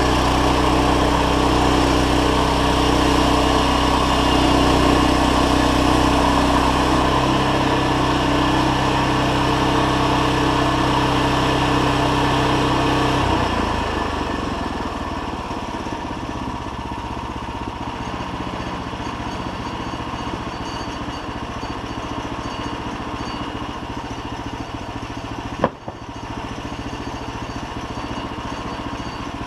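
An engine running steadily. About halfway through, its even tone gives way to a rougher, quieter sound, and there is one sharp click near the end.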